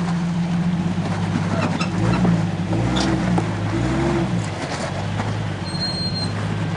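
Off-road 4x4 engine running under load at crawling speed, revving up and down several times in the middle as it works over rock, with a few sharp knocks.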